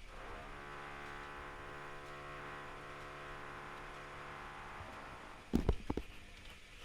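Privileg Classic 30612 washing machine's drum motor running with a steady hum as it turns the drum during the wash, fading out a little after five seconds in. A quick cluster of loud knocks follows near the end.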